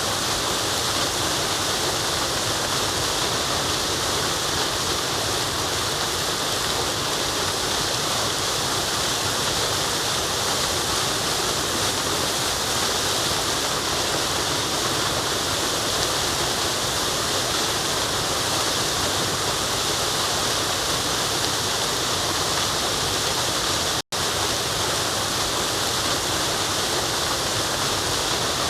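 Steady rushing of a forest waterfall, an even wash of falling water. It cuts out to silence for an instant about three-quarters of the way through, then resumes unchanged.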